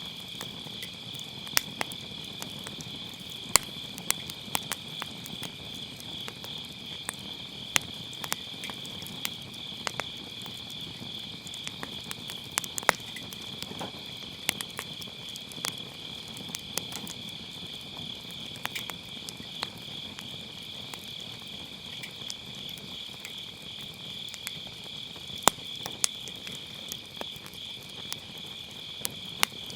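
A steady, unbroken chorus of autumn night insects calling, with scattered sharp pops and crackles from firewood burning in an open fire, a few pops much louder than the rest.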